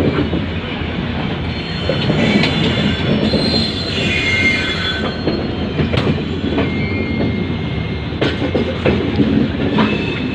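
Passenger express train running, with a steady rumble of wheels and coach. A high wheel-on-rail squeal rises for a couple of seconds a few seconds in, and a few sharp clicks come later.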